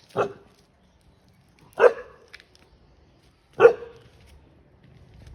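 A dog barking three single loud barks, spaced nearly two seconds apart: territorial warning barks driving off a monkey.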